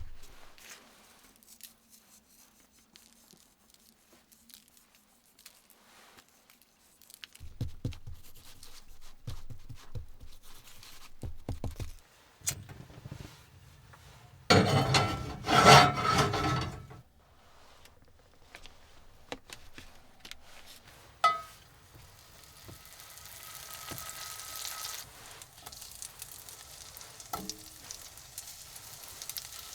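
Cooking preparation: scattered knocks and handling, a loud rasping scrape for about two seconds around the middle, and a sharp click. Near the end, a frying pan starts a faint, steady sizzle.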